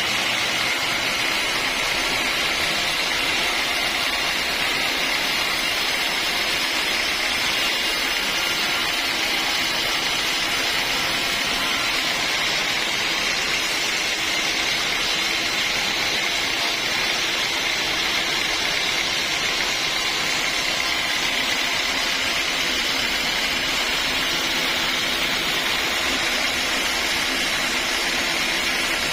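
Sawmill machinery running steadily: an even, continuous mechanical noise with a constant high-pitched tone, no let-up or change in speed.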